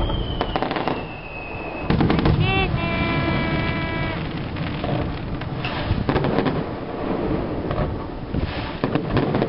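Fireworks display: repeated bangs of shells bursting, the loudest about two seconds in, followed by a whistling tone that holds for about a second.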